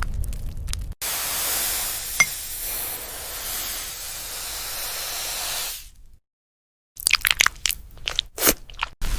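A steady hiss lasting about five seconds, which fades out into a moment of silence. Then comes a quick run of crisp, crackling crunches from bites and chewing of crunchy food.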